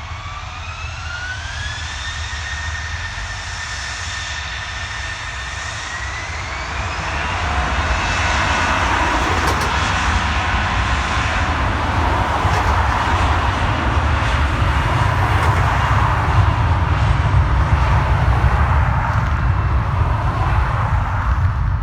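Jet airliner's engines spooling up: a whine climbs in pitch, levels off, and climbs again about six seconds in. After that, a loud steady roar with deep rumble builds as the engines reach takeoff thrust.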